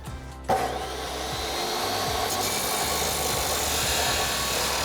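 Power saw cutting through a stainless steel exhaust pipe, starting about half a second in and running steadily.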